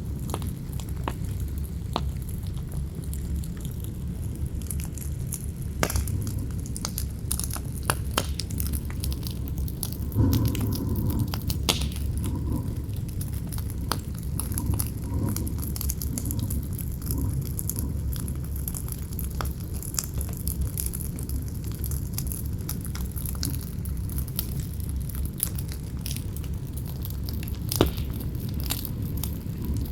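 Wood fire burning with frequent irregular crackles and sharp pops, one louder pop near the end, over a steady low rumble of wind.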